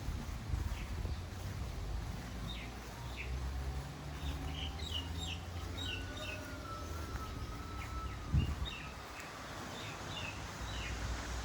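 Birds chirping in short, repeated calls over a steady low rumble, with a longer wavering whistle in the middle and a single thump about eight seconds in.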